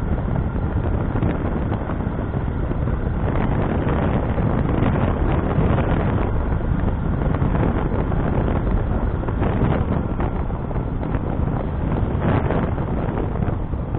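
Wind rushing and buffeting over the microphone of a moving motorcycle, with engine and road noise underneath. The sound holds steady throughout.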